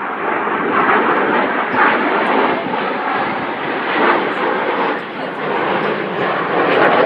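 Display aircraft flying past at an air show: a loud, steady rushing engine noise that swells and dips as they pass.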